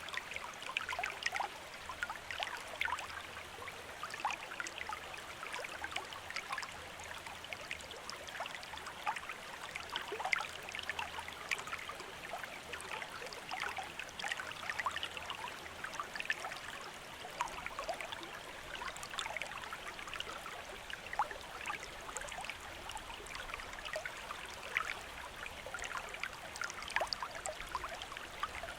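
A shallow stream running over stones, with a steady babble of many small splashes and trickles.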